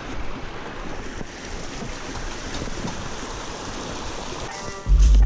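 Steady rushing of a mountain stream. Just before the end, music with a heavy bass beat comes in loudly.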